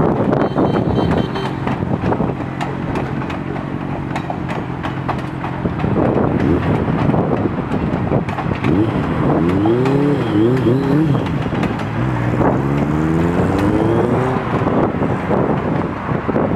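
Passenger coaches and a caboose rolling past: steady wheel rumble with repeated sharp clicks of the wheels over rail joints, mixed with wind on the microphone. Twice in the second half a wavering whine rises and falls.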